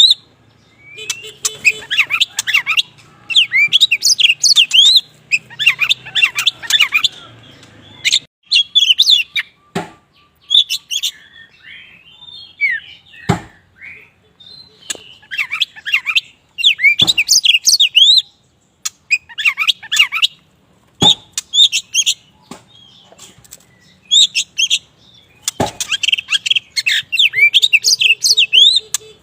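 Black-form oriental magpie-robin (kacer wulung) singing in repeated bursts of quick, varied high chirps and whistles, with short pauses and a few sharp clicks between phrases.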